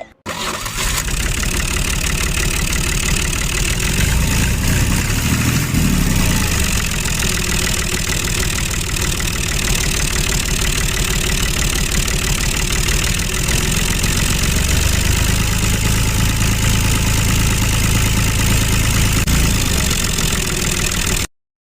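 Tractor engine running steadily at idle, with an even low chugging throughout. It starts abruptly and cuts off suddenly near the end.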